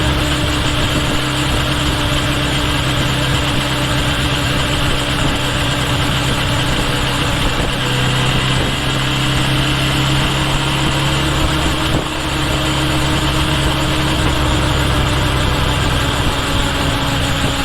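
Kawasaki Ninja H2 SX's supercharged inline-four engine running at a steady, even speed, heard close from a microphone at the rear turn signal, with road and wind noise underneath.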